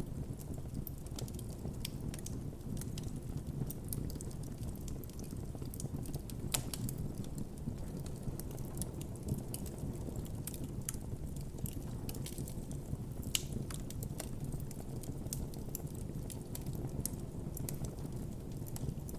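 Campfire of burning wood crackling steadily, with scattered sharp pops over the low rush of the flames; a few louder pops stand out, one about six and a half seconds in and another past the middle.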